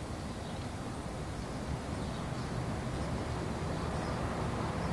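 Steady low hiss and rumble with no distinct sound events: the background noise of an old VHS tape recording.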